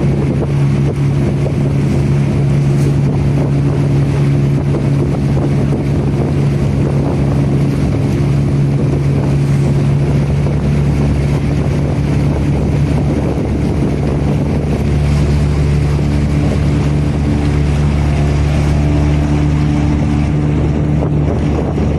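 Motorboat engine running at a steady drone, with wind noise. Its note shifts slightly about two-thirds of the way through.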